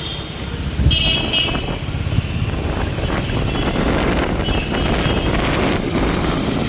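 Motorcycle running along a road in traffic, with a steady engine and road rumble. Short vehicle horn toots sound at the start, about a second in and again near the middle.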